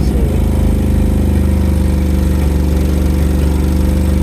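1987 Nissan 200SX S12's engine idling steadily and loud, its ECU's mass airflow sensor settings being tuned.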